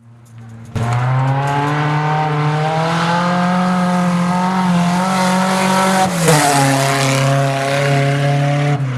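Race car engine running hard at steady high revs, coming in abruptly just under a second in, with two brief drops in pitch where the throttle eases off.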